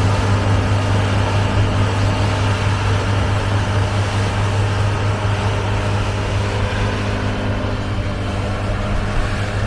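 Tractor engine running steadily, a continuous low drone.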